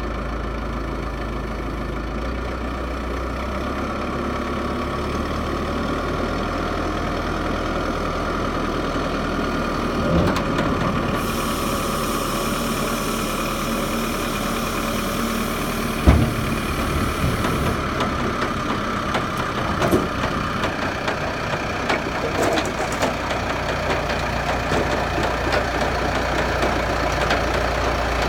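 Diesel engine running steadily, with a few metal clanks, the sharpest about 16 seconds in, and a hiss from about 11 to 18 seconds in.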